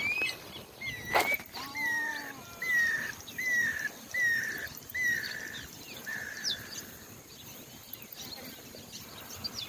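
Squirrel cuckoo calling: a steady series of about eight clear whistled notes, each slurring down, evenly spaced and fading out after about six seconds. A single sharp knock comes about a second in.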